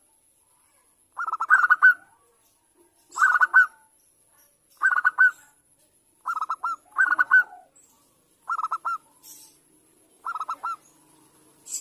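Zebra dove cooing: about seven short, staccato, pulsed coo phrases, each roughly half a second long and repeated every second and a half or so.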